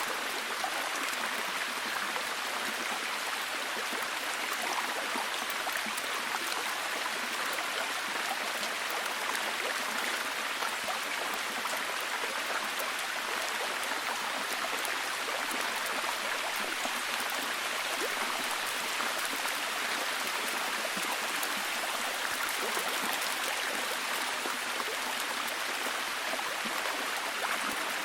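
Steady, heavy rain: a dense, even hiss of falling drops with fine patter, unchanging in level.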